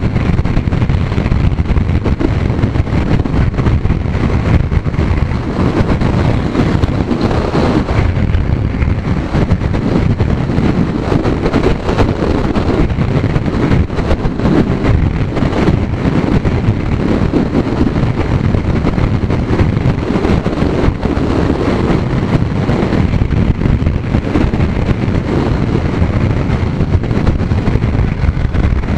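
Heavy wind noise buffeting the microphone of a motorcycle riding at speed in a strong wind, with the bike's engine running underneath. The rushing is steady and loud throughout.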